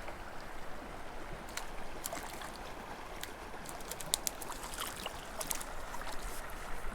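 Mountain creek water running steadily, with a scatter of small sharp clicks and splashes from about a second and a half in until near the end.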